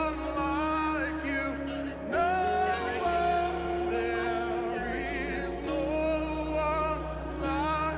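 Slow live worship music: sustained chords over deep bass notes that change every second or two, with a voice singing long, wavering held notes.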